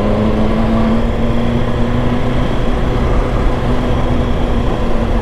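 BMW S1000XR inline-four engine running under way, its note stepping up slightly in pitch at the start and then holding steady, over rushing wind noise.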